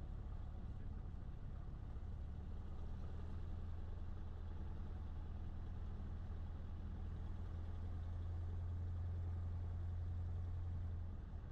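Cessna 152's four-cylinder Lycoming engine running steadily at low taxi power, a low drone. It grows a little louder about two-thirds of the way through and eases off just before the end.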